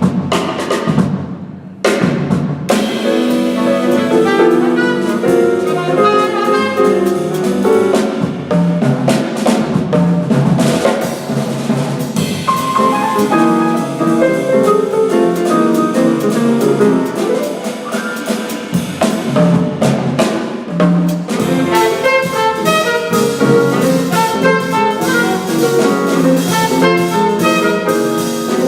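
Small jazz group playing live: a saxophone lead over piano and drum kit. The band breaks off for a moment about a second in, then comes back in on a sharp drum hit.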